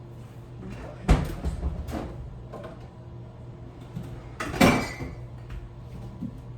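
Kitchen cupboard and bottle handling while fetching the vegetable oil: a sharp knock about a second in, a few lighter knocks after it, and a louder, longer clatter about four and a half seconds in.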